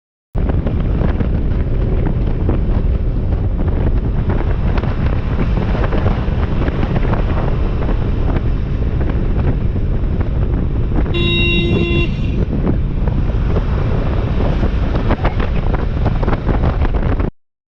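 Heavy wind buffeting the microphone and road noise from a moving vehicle, with a vehicle horn sounding once for about a second, about two-thirds of the way through.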